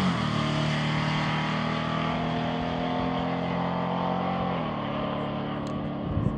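Drag-racing engine at full throttle pulling away down the strip, its note holding steady and fading with distance. The pitch drops once, about four and a half seconds in.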